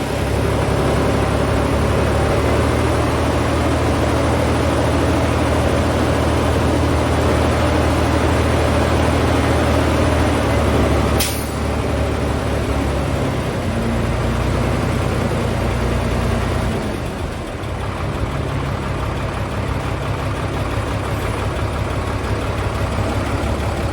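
Diesel engine of a 371 hp 6x4 tipper truck running steadily. There is a brief sharp sound about eleven seconds in, and the engine note drops shortly after and again about two-thirds of the way through.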